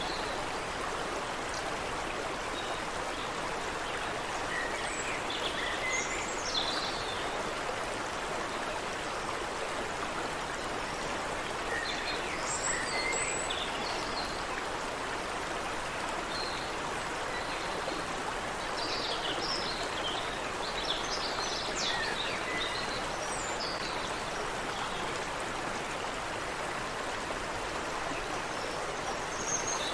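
Creek water running steadily over rocks, with birds chirping and calling now and then above it.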